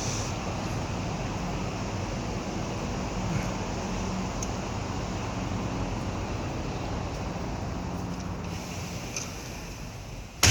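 Steady outdoor rumble of distant road traffic, with wind on the microphone. Right at the end, one sharp knock as a door shuts.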